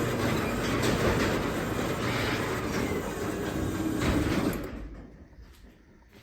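Craftsman 3/4 hp belt-drive garage door opener, with a DC motor, running as it lowers the garage door. The door rumbles on its tracks, then the run stops about four and a half seconds in and the sound dies away.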